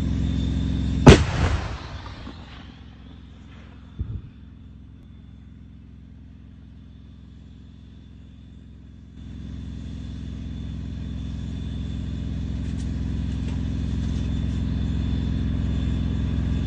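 A tank's diesel engine running with a steady low drone. About a second in the main gun fires once, a very loud blast that rings out for about a second. A smaller bang follows about three seconds later, and the engine drone swells again in the second half.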